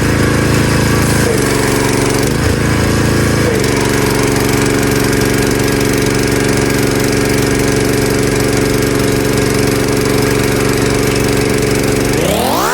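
Pressure washer running steadily for the final rinse of a dirt bike: an even low hum under the hiss of the water spray. Near the end a rising whine sweeps quickly upward.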